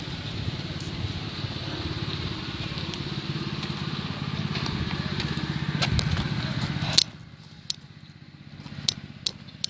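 Train running slowly on the line, a steady rumble with wind noise on the microphone that drops away suddenly about seven seconds in, leaving a quieter rumble with a few sharp clicks.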